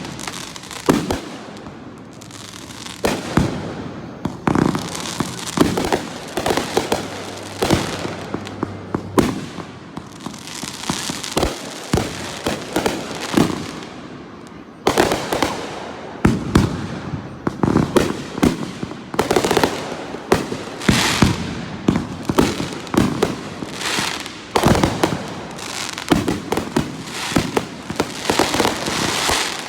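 Aerial fireworks display: a long run of booming shell bursts, several a second, with crackling between them, growing denser about halfway through.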